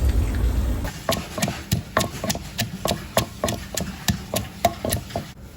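Rapid, even knocking of a wooden kitchen implement, about three or four hard strikes a second for roughly four seconds, as dhido is being made. A steady low rush stops about a second in, just before the knocking starts.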